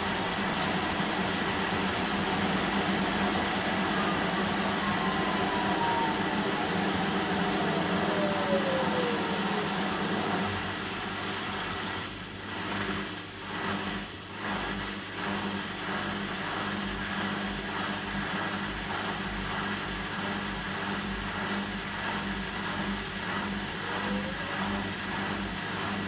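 Bosch front-loading washing machine running a synthetics 40 °C wash, with a steady motor hum. In the first ten seconds a whine falls in pitch as the drum slows. After that it runs quieter, with an even rhythmic pulsing as the drum turns.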